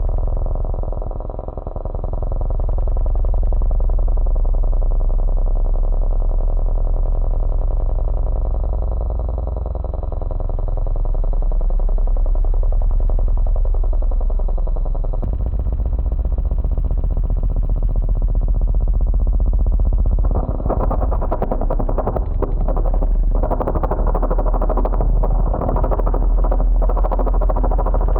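A low, buzzing electronic drone, the kind of low tone used to vibrate a loudspeaker for cymatics, with slowly shifting pitch patterns. From about twenty seconds in it turns harsher and rattling.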